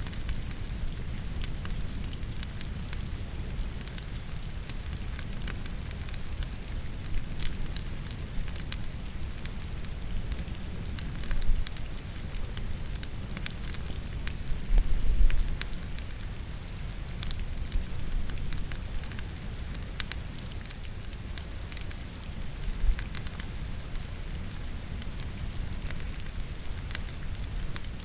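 Firewood burning in a fireplace, crackling with frequent sharp pops over a steady bed of rain. A few brief low rumbles rise out of it, the loudest about fifteen seconds in.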